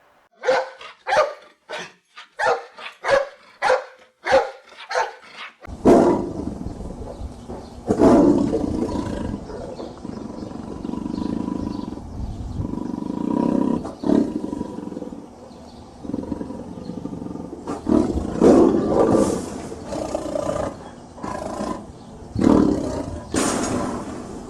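A tiger roaring and growling, loud and continuous from about six seconds in, with heavy roars several times. Before that comes a run of about ten short, evenly spaced calls.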